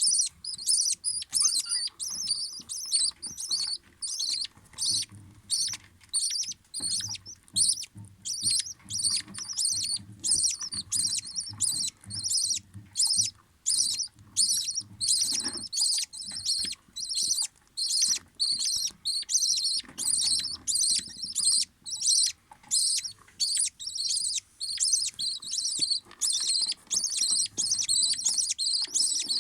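Budgerigars chirping in a fast, steady series of high-pitched calls, about two to three a second, without a break.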